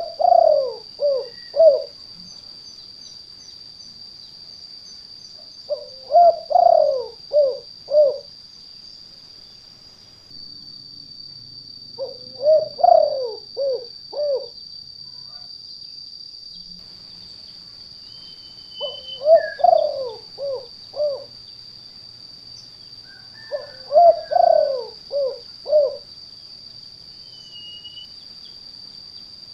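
Spotted dove (tekukur) cooing: a phrase of several low notes, repeated five times about every six seconds. A steady high-pitched whine runs underneath.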